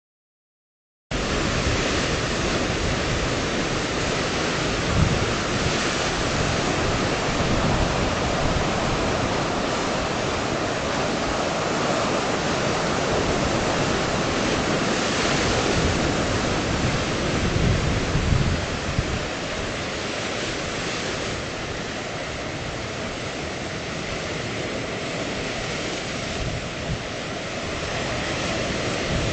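Ocean waves washing onto the shore, a steady rush of surf, with wind buffeting the microphone in irregular low gusts. It starts about a second in.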